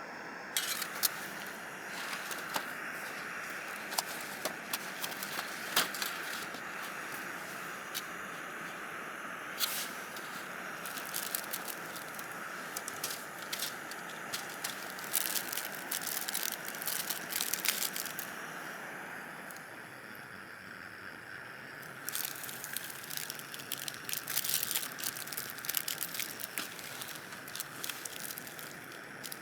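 Irregular sharp crackling clicks over a steady hiss, coming in dense clusters with a quieter lull about two-thirds of the way through.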